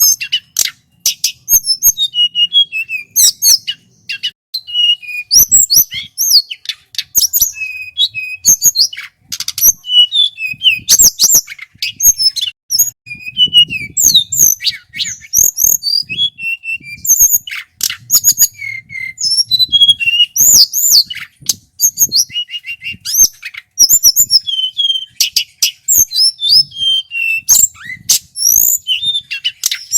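Male tledekan gunung singing continuously: a fast, varied run of high whistled notes, sweeping phrases, sharp clicks and quick trills with hardly a pause.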